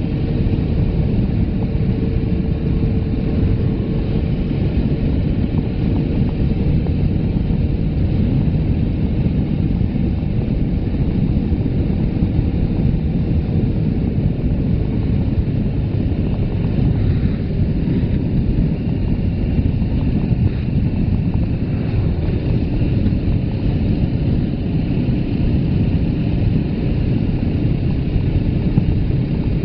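Suzuki GS500F parallel-twin motorcycle engine running at a steady pace under way, heard under a steady low rumble of wind buffeting the phone's microphone.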